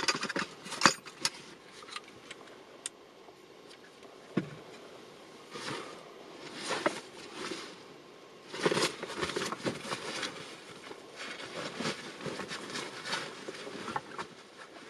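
Handling noises in a small room: a few sharp knocks in the first second, then irregular bursts of rustling and scraping.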